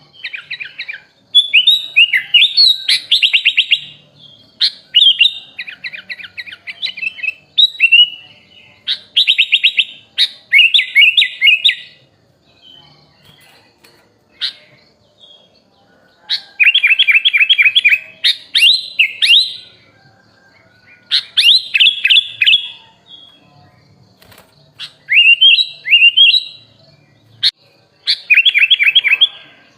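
Kutilang (sooty-headed bulbul) singing: loud bursts of fast repeated chirping notes and trills lasting a second or two each, with short pauses between, and a quieter lull about halfway through.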